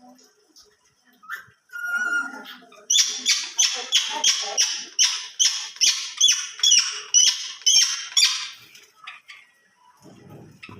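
A pet bird calling: some quieter chatter, then a rapid run of about fifteen loud, identical chirps, around three a second, lasting about five seconds.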